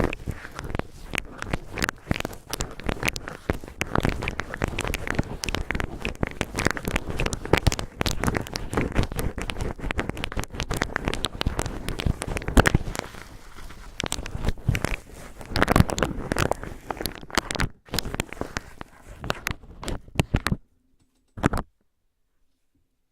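Cotton swabs rubbed and crinkled right against a microphone: dense, rough crackling and scratching. It cuts off about twenty seconds in, with one short rustle a second later.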